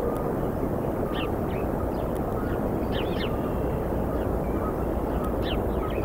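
A steady low rumble with several short, high bird calls scattered through it, quick chirps that rise and fall, some in pairs.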